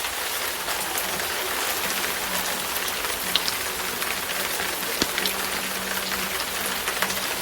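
Wood fire in a fireplace crackling: a steady hiss with scattered small clicks and a couple of sharper pops, about three and five seconds in.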